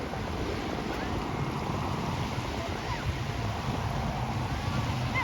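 Beach ambience: wind buffeting the microphone with a low rumble over a steady wash of surf.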